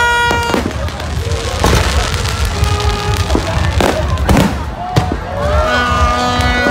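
Fireworks going off: sharp bangs about once a second over a continuous low rumble of further bursts.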